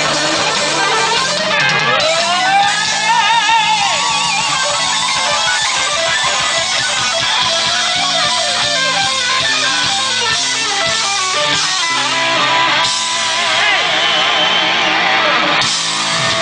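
Rock band playing live, led by an electric guitar playing bent notes with a wide, wavering vibrato over the band.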